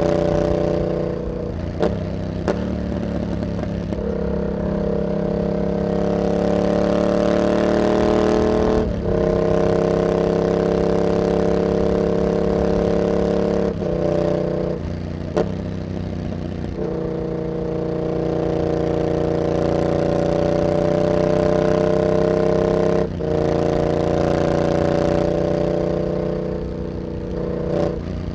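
Yamaha MT-07's parallel-twin engine running through an aftermarket carbon hexagon exhaust with a dB killer, pulling up through the gears. Its pitch climbs and then breaks at each gear change, about three times, with a few sharp cracks from the exhaust.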